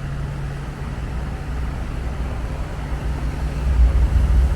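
City street traffic: a steady wash of road noise, with a vehicle's low engine rumble growing louder over the last couple of seconds as it draws near.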